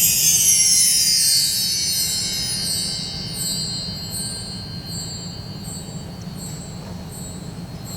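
Metal percussion chimes swept in a downward glissando, their high tones ringing on and slowly fading.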